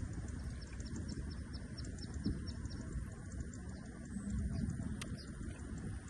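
Rural field ambience: a run of short, high chirps, about four a second, fading out about halfway through, over a steady low rumble.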